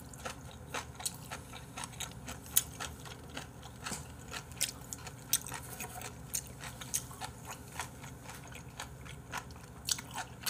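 A person chewing raw beef omasum (cheonyeop) close to the microphone: irregular wet clicks and crunches from the mouth, a few every second.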